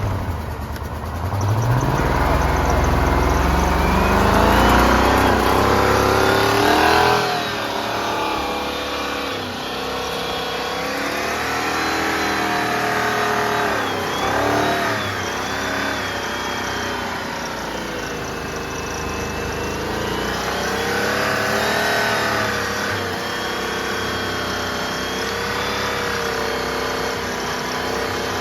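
Ford F-150 engine revving under a held throttle while it swallows Coca-Cola. Its speed climbs over the first several seconds and drops abruptly about seven seconds in. After that it rises and sags unevenly as the throttle is feathered to keep it from dying.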